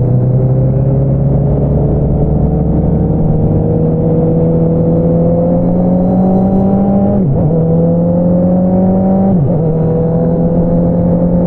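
Honda CBR650R inline-four through an Akrapovič single-outlet exhaust, pulling steadily with the pitch slowly rising. About seven seconds in and again two seconds later the note dips sharply at a quick upshift, then runs on at a steady pitch.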